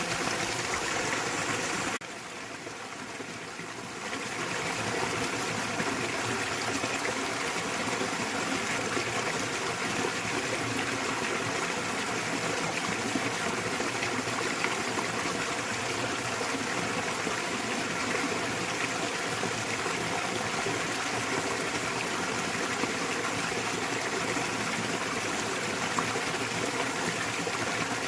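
Small waterfall in a valley stream, water splashing and rushing steadily. About two seconds in it turns quieter for about two seconds, then comes back to its full level.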